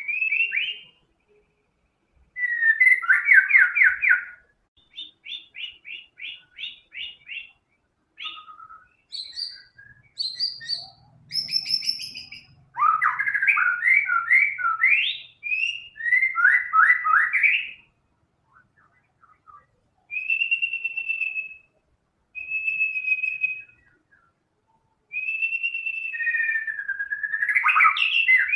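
White-rumped shama singing loudly in a long series of varied phrases, including ones learned from other birds. Fast trilled rattles and rapid note runs alternate with clear, held whistles and sliding notes, with short pauses between phrases.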